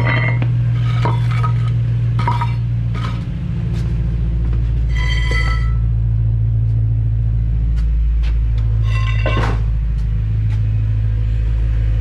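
BMW E92 M3's V8 engine idling with a steady low hum, with a few short clicks and clinks over it.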